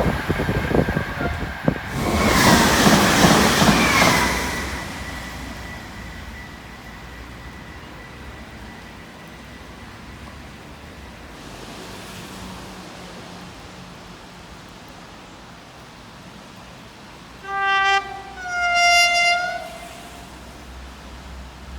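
A train passing loudly for the first few seconds, then fading away. Near the end a train horn sounds twice: a short lower note, then a longer higher note.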